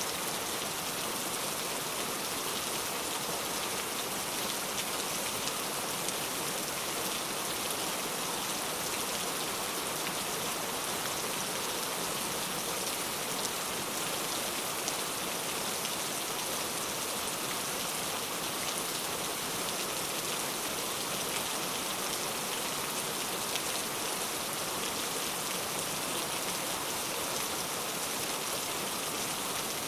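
Heavy rain falling steadily, a dense even hiss of drops on hard surfaces with no lulls.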